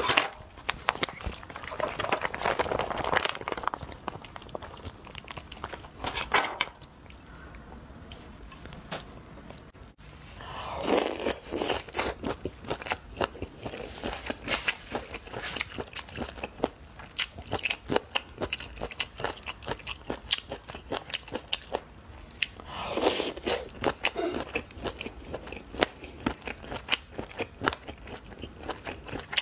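Close-miked crunching and chewing of chili-sauced chicken feet, with many short sharp crunches and wet mouth sounds, plus a few longer rustling swells.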